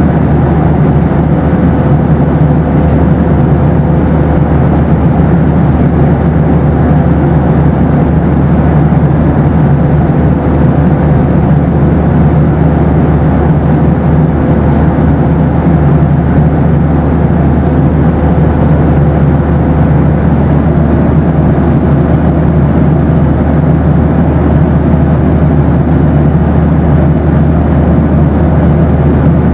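Boeing 737 in flight: a steady, loud roar of engine and air noise heard inside the cabin, deepest in the low end, with a faint steady hum running through it. It does not change.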